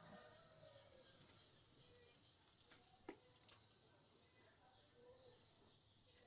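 Near silence: faint background tone with a single faint click about three seconds in.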